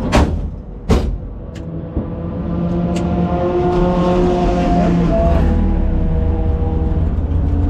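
Car engine noise: a steady engine hum that dips slightly in pitch about five seconds in, over a low rumble, with two sharp knocks in the first second and a few lighter clicks after.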